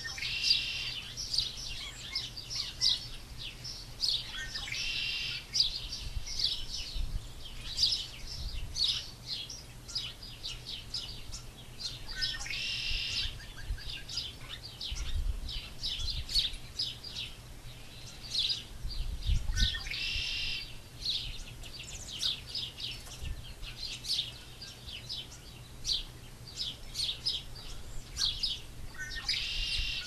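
Small birds chirping and calling, with a longer, higher call recurring every several seconds over a steady scatter of short chirps. A low rumble runs underneath.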